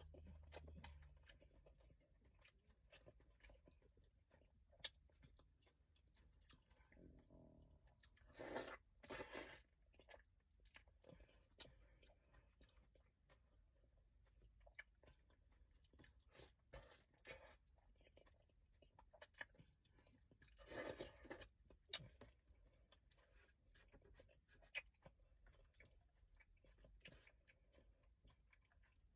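Faint close-up eating of a crawfish boil: chewing and many small clicks and crunches of shells being cracked and peeled. There are a few louder, longer sounds around 8 to 10 seconds in and again about 21 seconds in.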